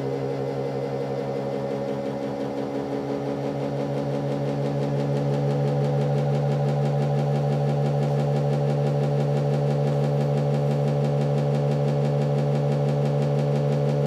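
Prototype ReGen-X electric motor-generator running steadily with an even, pitched hum, which grows a little louder about five seconds in.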